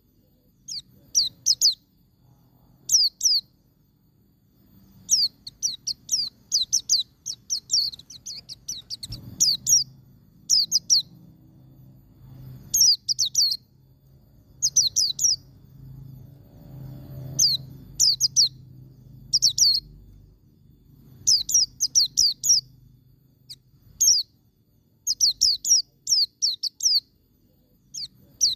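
White-eye (pleci) singing in the 'ngalas' style: quick bursts of high, downward-sweeping chirps, two to eight notes at a time, repeated with short pauses. A faint low hum sits underneath from about nine to twenty seconds in.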